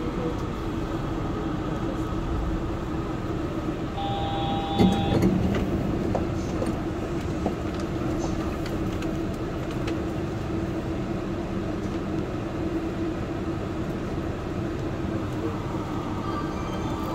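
Yurikamome rubber-tyred automated train running, heard from on board as a steady hum. A short beep sounds about four seconds in, followed by a brief knock.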